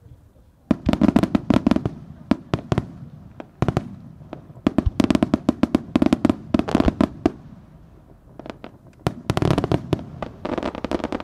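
Aerial fireworks shells bursting in volleys: rapid runs of sharp bangs and crackles, broken by several short lulls.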